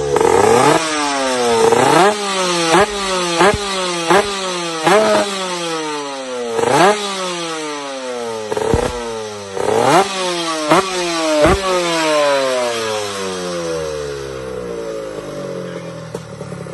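Two-stroke motorcycle engine revved in a string of about a dozen sharp throttle blips. Each blip rises fast and falls back slowly, and they fade out near the end.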